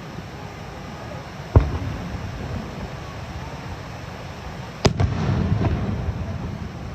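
Aerial fireworks bursting: two sharp bangs about three seconds apart, the second louder and followed by a rumbling, crackling tail.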